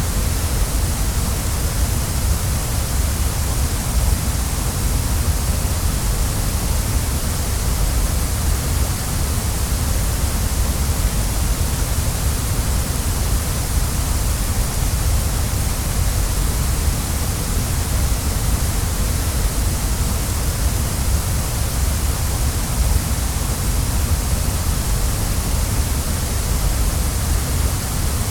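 Waterfall: a steady, unchanging rush of falling water, with a deep rumble under a bright hiss.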